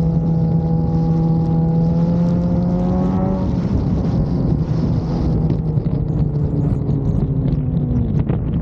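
Suzuki GSX-R750's inline-four engine running at steady throttle, its note rising slightly, then easing off about three and a half seconds in and slowly falling as the bike slows, with wind rushing over the microphone.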